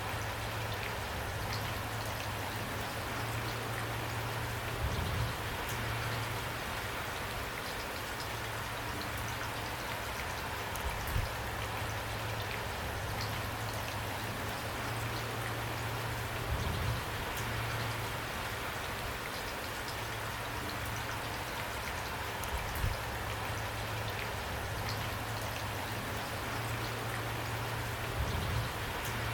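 Steady rain falling, with a brief dull knock about every six seconds.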